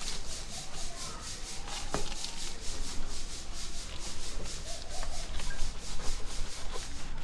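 Quick, regular back-and-forth scrubbing strokes rubbing the motorcycle's surface during the wash. The rhythm stops abruptly at the very end.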